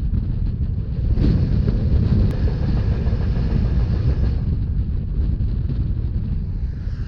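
Rhaetian Railway narrow-gauge train running at speed, a steady low rumble of the rolling train with wind buffeting the microphone.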